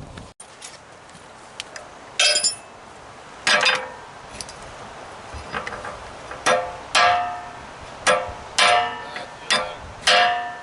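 Repeated sharp metal strikes on compressor parts being knocked apart, each leaving a brief ringing tone. They come a second or so apart at first, then faster, about one to two a second, in the second half.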